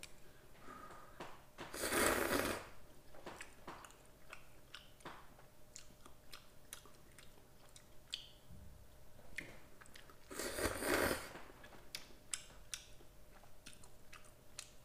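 A person chewing and crunching noodles and kimchi close to the microphone, with many small wet clicks. Two louder noisy swells come about 2 s and 10 s in.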